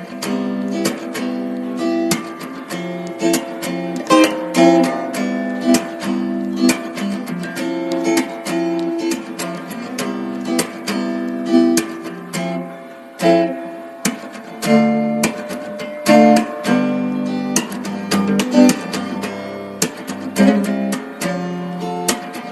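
Background music: acoustic guitar strummed and plucked, with chords changing every second or so.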